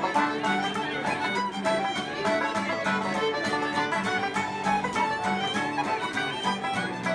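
Ceilidh band playing a lively traditional dance tune, the fiddle leading over strummed and plucked string accompaniment.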